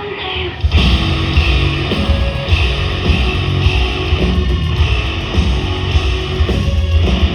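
Hard rock band playing live: distorted electric guitars, bass and drums come in together under a second in and drive a heavy, steady riff.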